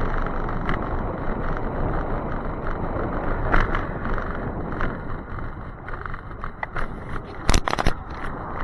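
Steady rushing noise of a moving e-bike on a rainy ride, from wind and road, with scattered light ticks and a short, loud clatter about seven and a half seconds in.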